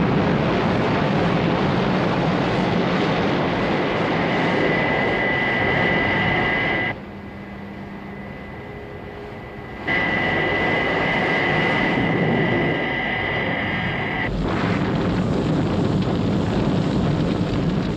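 Thunderbird 2's jet engines roaring at launch, with a steady high whine over the roar. The roar drops to a quieter level for about three seconds partway through, then comes back loud.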